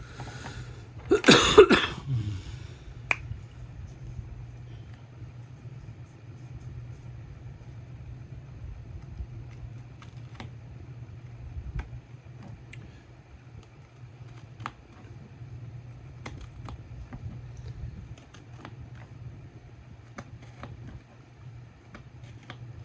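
Scattered light clicks and taps of small plastic storage pieces being handled, over a steady low hum, with one loud sudden noise about a second in.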